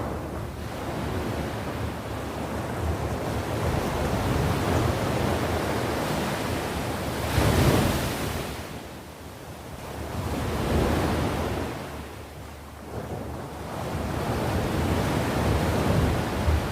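Sea waves washing onto the shore, swelling and falling away in turn. The biggest wave breaks about seven and a half seconds in, with smaller swells near eleven seconds and toward the end.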